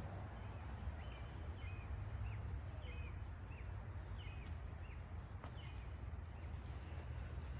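Outdoor background of birds chirping, short repeated notes about two a second with some higher twitters, over a steady low rumble.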